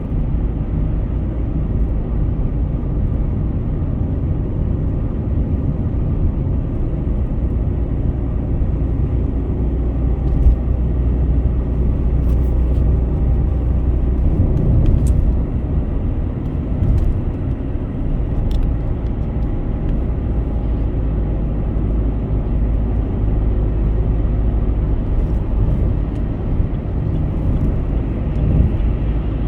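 Car on a highway: a steady low rumble of tyres and engine, with a few faint ticks.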